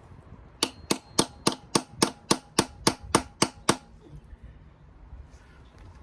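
A hammer striking metal about a dozen times in a steady run, about four blows a second, each with a short metallic ring, stopping about halfway through.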